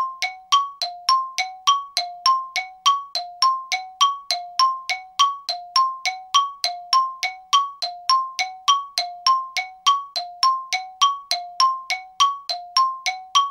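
A bell-like chime striking two notes in strict alternation, a lower and a higher one, about four strikes a second, each ringing briefly. It keeps the same even rhythm throughout.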